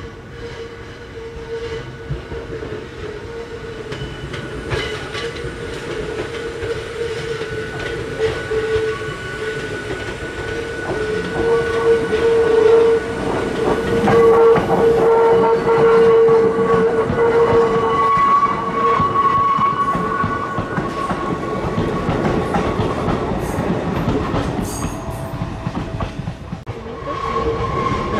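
Hakone Tozan Railway electric train running on the line, getting louder toward the middle and easing off near the end, with a steady high whine throughout and a second, higher tone joining in the middle.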